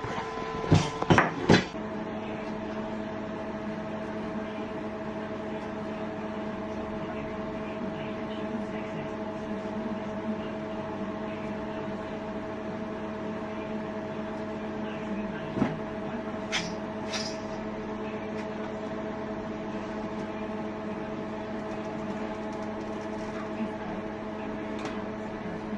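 A steady machine hum made of several constant tones, with a few sharp knocks near the start and a couple of faint clicks a little past the middle.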